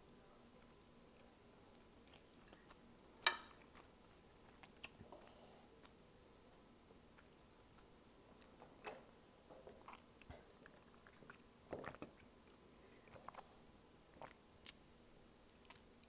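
A person chewing a mouthful of spicy instant ramen noodles, with scattered wet mouth clicks and smacks; a sharp click stands out about three seconds in.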